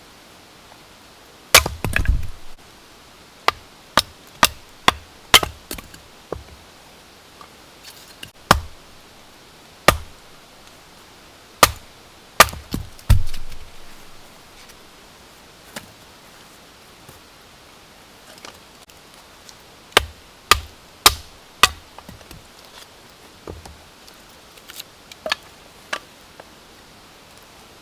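Axe chopping firewood: a series of sharp wooden strikes in irregular bunches, some with a dull thud as the blade bites in, with pauses between the bunches.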